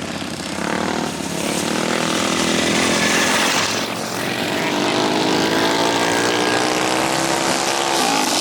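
Mini bike's small single-cylinder engine running under throttle, its pitch climbing steadily for several seconds, then dropping sharply near the end as the throttle comes off.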